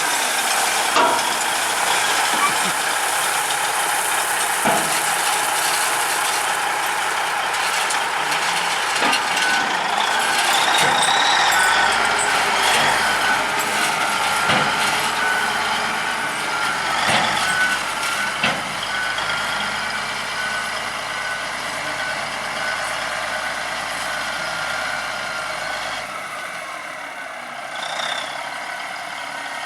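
Dump truck running and backing up, its reverse alarm beeping at a steady rate, with a few knocks and clanks along the way; the sound fades toward the end.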